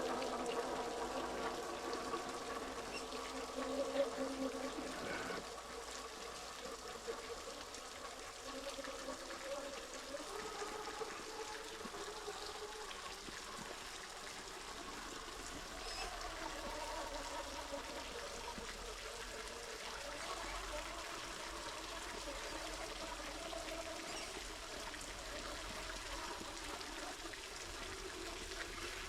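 Creek water trickling and splashing over a small waterfall, running steadily. A steady whine of several tones sounds for the first five seconds or so.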